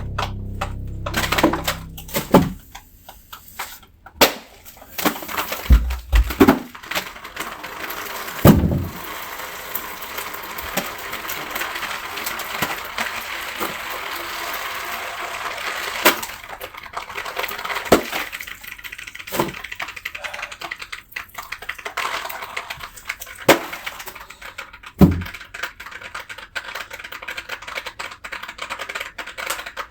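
Water-damaged ceiling drywall being cut and broken out: scattered sharp cracks and knocks, with a stretch of steady scraping in the middle.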